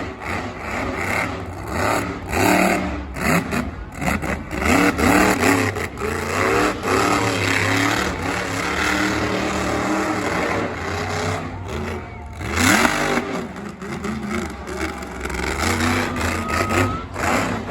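Heavy vehicle engine revving hard, its pitch rising and falling again and again.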